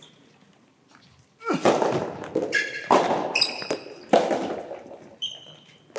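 Soft tennis rally on an indoor court: three sharp ball impacts about a second and a half apart, each echoing in the hall. Shoes squeak on the court floor between the second and third.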